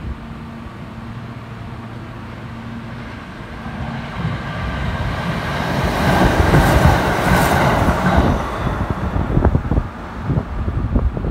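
Kintetsu 2430 series semi-express electric train running through the station without stopping. It builds to a loud rush as the cars pass close by about six to eight seconds in, then gives a quick series of wheel clacks over the rail joints near the end as the last cars go by.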